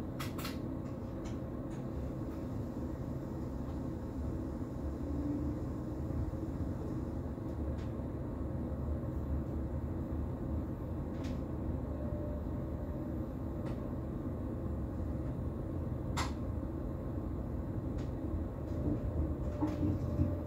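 Cab of a Bombardier Twindexx double-deck electric train running: a steady low rumble with a few sharp clicks, and a faint steady tone joining about halfway. Near the end, wheels start knocking rhythmically over rail joints or points.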